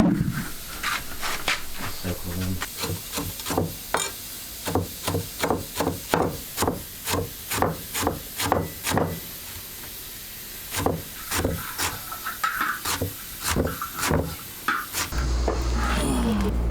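A steady run of sharp knocks, about two a second, with a short pause about two-thirds through, over a faint hiss. A steady low hum starts near the end.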